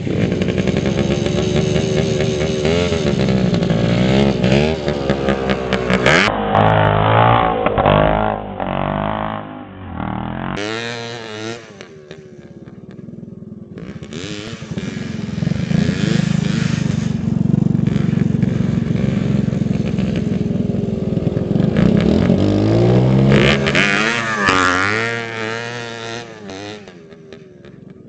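Dirt bike engine revving up and down as it is ridden, its pitch rising and falling again and again; it drops away about twelve seconds in and again near the end.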